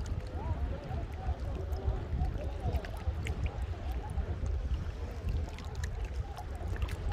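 Sea water sloshing and splashing with a steady low rumble, as of wind on the microphone.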